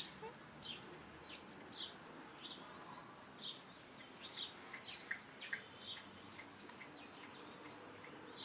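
Small birds chirping: short, high chirps, one or two a second at uneven spacing, over faint background noise.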